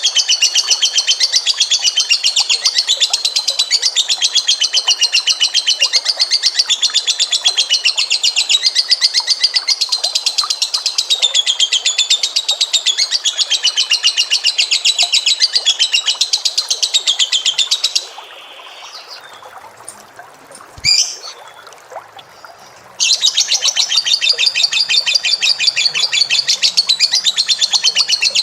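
A cage bird's long, very rapid, unbroken high-pitched trill with a wavering pitch. It stops suddenly about two-thirds of the way through, leaves a pause of some five seconds broken by one short sharp note, then starts again just as fast.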